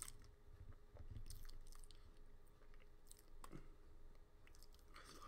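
Faint chewing of a soft chocolate snack cake, with small mouth clicks and a slightly stronger mouth sound about three and a half seconds in; otherwise near silence.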